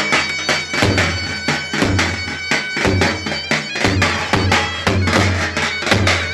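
Lively Turkish folk dance music: an electronic keyboard playing a melody with held notes over fast, steady davul drum beats.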